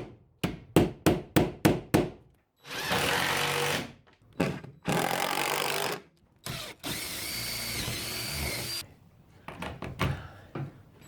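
Power drill driving screws into wooden boards in three runs of one to two seconds, the last with a wavering whine, after a quick series of about six knocks. A few light clicks follow near the end.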